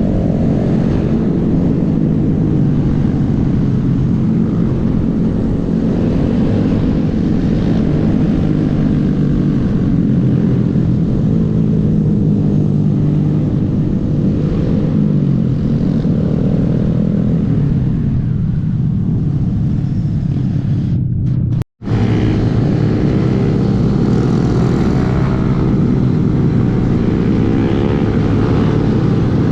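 Small Honda single-cylinder motorcycle engine running on the move, its pitch rising and falling as the rider changes speed, with wind noise. The sound cuts out completely for a split second about two-thirds of the way through.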